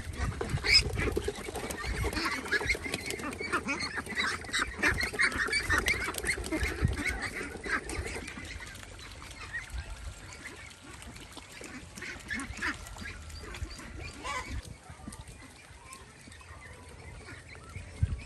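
Many waterfowl calling, short calls overlapping densely, then thinning out after about eight seconds.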